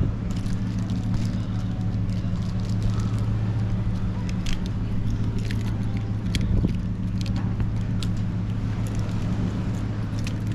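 Steady low hum of a running vehicle engine, with scattered light clicks and ticks over it.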